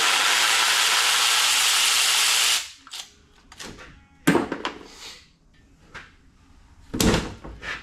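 Power tool running steadily while parts come off an LS engine block during teardown. It stops about two and a half seconds in, followed by a few sharp knocks and clanks, with a louder thunk near the end.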